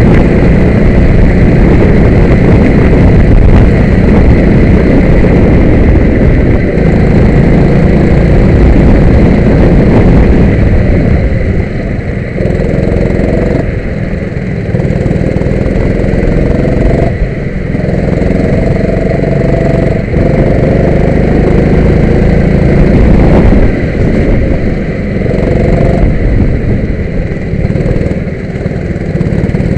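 Kart engine running hard in a lap, with a dense low rumble for the first ten seconds. After that it repeatedly climbs in pitch under acceleration and drops back every two to three seconds as the driver lifts off and gets back on the throttle.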